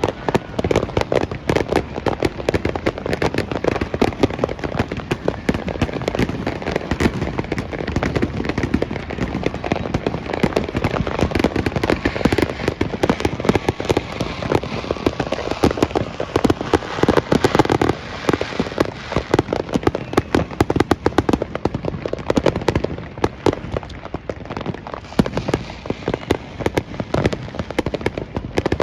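Fireworks going off: a dense, continuous crackle of many pops and bangs every second, with no pauses.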